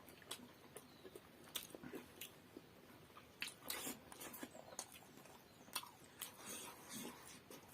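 People chewing and biting into steamed momos, with scattered soft wet mouth clicks and smacks.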